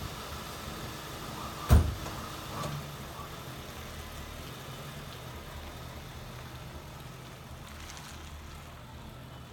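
2007 Ford Crown Victoria's 4.6-litre V8 idling with a cylinder 8 misfire, and one loud sharp thump about two seconds in.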